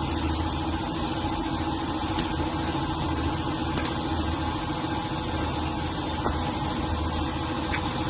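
A motor or engine running steadily at a constant speed, an even hum with fixed tones. It cuts off suddenly at the end.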